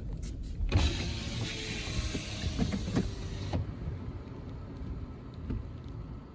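Low rumble of a Toyota 4Runner on a rough trail, with a few knocks. From under a second in to about three and a half seconds, a hiss sits over the rumble and then cuts off suddenly.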